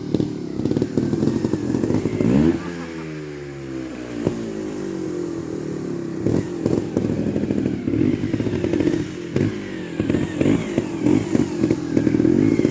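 Trials motorcycle engine worked with the throttle: a quick rev about two seconds in that slowly falls away, then a run of short, sharp throttle blips, with some mechanical clatter.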